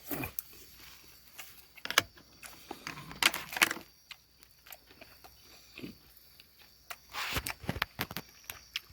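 A person eating a bite of grilled beef short rib: chewing and mouth sounds with scattered light clicks and clatter, and a couple of short louder bursts about three seconds in and near the end.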